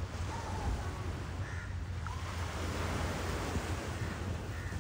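Steady rushing noise with a strong low rumble, like wind buffeting the microphone outdoors.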